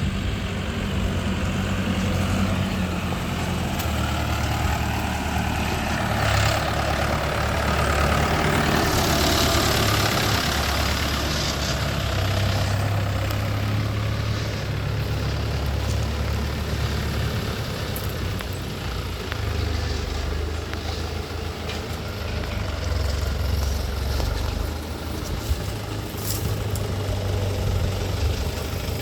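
Heavy diesel engine running throughout, its deep note shifting up and down with load. It surges louder and harsher for a few seconds about a quarter of the way in.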